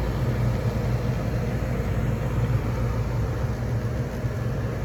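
Old gas furnace running in heating mode: a steady low hum and air rush from the draft inducer motor and blower. The inducer motor is running hot.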